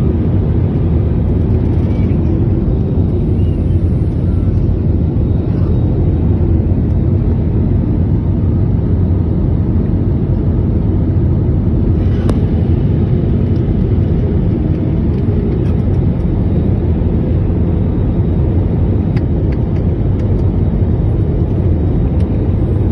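Steady low rumble of a moving vehicle, unbroken throughout, with a faint click about halfway through.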